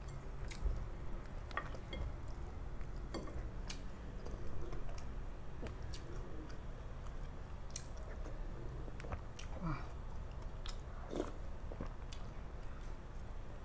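Close-miked chewing and wet mouth sounds of a person eating, with scattered small clicks and smacks.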